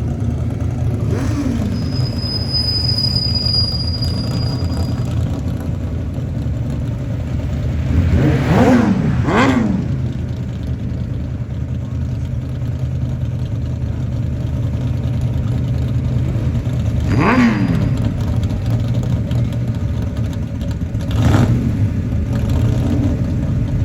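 Classic cars cruising past with a steady low engine rumble. Several cars go by about a third of the way in and again past the middle, their engine pitch rising as they come and dropping as they pass.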